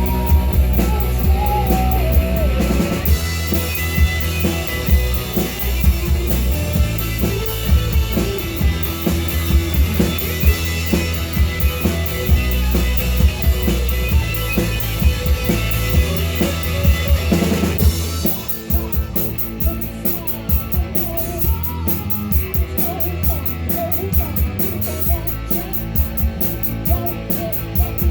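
Live rock band playing a song: drum kit, guitars and a sung vocal, loud and full. About two-thirds of the way through, the drums shift into a busy, even cymbal pattern.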